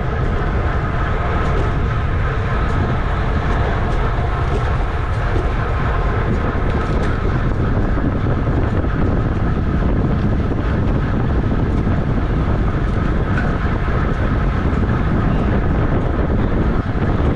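Steady wind rush over the microphone of a camera riding on a racing bicycle at speed, mixed with road and drivetrain noise, loud and unbroken.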